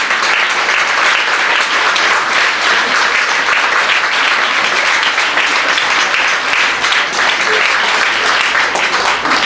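Audience applauding steadily: a dense, continuous clapping from a crowd in a hall.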